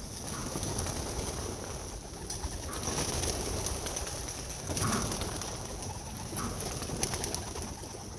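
Racing pigeons cooing, with scattered light clicks and rustling.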